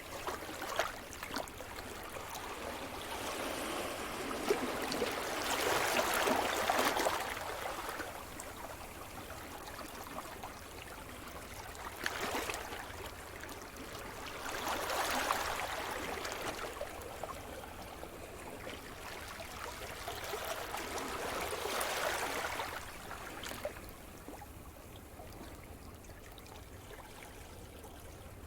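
Sea surf: waves breaking and washing in, swelling up three times about seven or eight seconds apart, with a softer wash of water between them.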